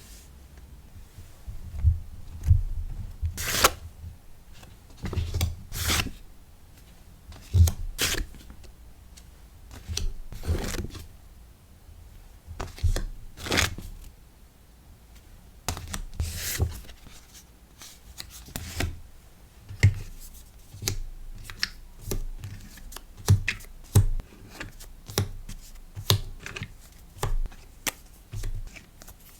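Hands packing a sticker order: irregular rustling and crinkling of paper and plastic packaging in short bursts, with light taps and soft thumps on the desk.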